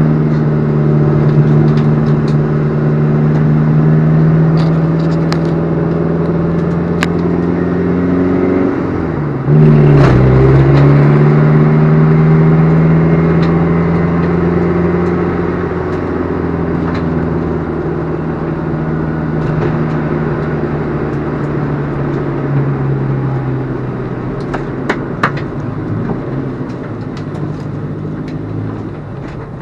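Alfa Romeo 147 JTD's four-cylinder turbodiesel engine running at a steady note. About ten seconds in the pitch dips briefly and the engine gets louder, then the note slowly falls, with faint clicks and rattles over it.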